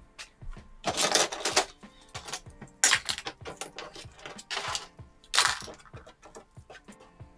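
Small hard objects clattering and clicking as they are handled and dropped, in several separate bursts, over soft background music.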